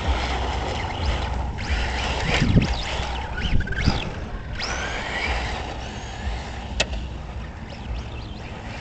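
Electric radio-controlled truck on a Tamiya TT-01E chassis driving over rough ground: motor whine rising and falling in pitch with the throttle over a steady rattle of tyres and chassis on the bumps, with one sharp click about seven seconds in.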